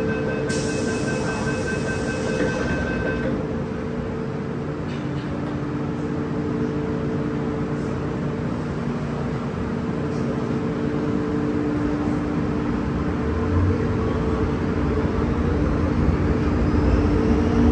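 Hong Kong MTR M-Train running between stations, heard from inside the car: a steady hum of several tones over rolling rail noise. A pair of thin high tones sounds for the first three seconds, and the low rumble grows louder about two-thirds through.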